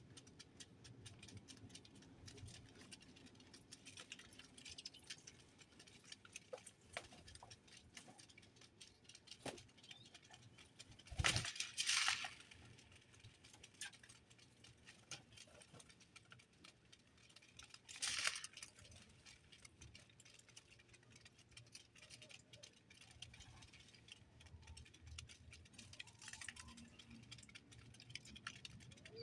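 Small birds moving and pecking at a feeder: a steady scatter of faint light ticks and rattles, with a few louder, brief rustling bursts about eleven, twelve and eighteen seconds in.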